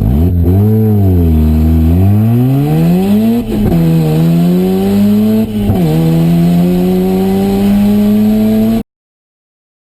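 A car engine under hard acceleration. Its pitch climbs, then drops back twice at gear changes, about three and a half and five and a half seconds in. The sound cuts off abruptly shortly before the end.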